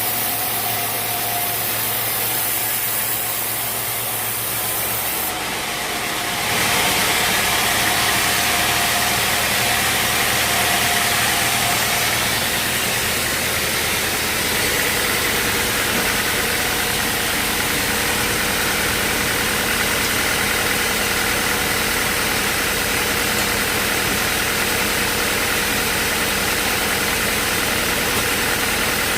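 Band sawmill running steadily with its engine and blade going, the sound turning louder and noisier about six seconds in.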